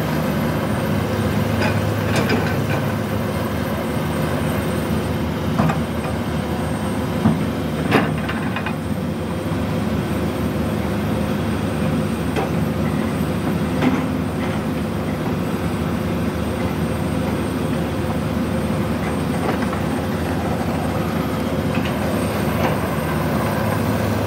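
Komatsu PC200 hydraulic excavator's diesel engine running steadily under work, with a few sharp knocks, the loudest about seven and eight seconds in.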